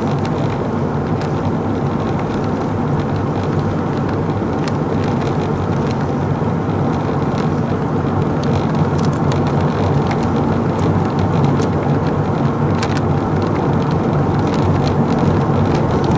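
Steady engine and road noise of a vehicle under way, holding an even level, with a few faint ticks.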